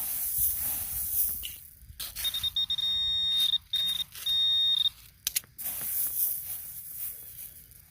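Metal detector pinpointer sounding a steady high beep for about two and a half seconds, in three stretches with short breaks, as it closes in on a buried dime. Cicadas buzz in the background before and after the beep, and there are a few short knocks.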